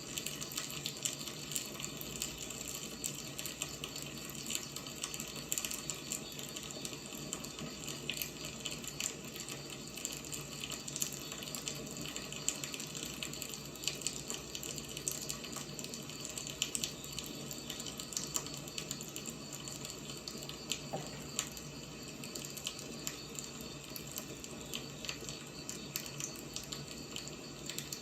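Wood fire burning: a steady hiss with frequent small crackles and pops scattered irregularly throughout.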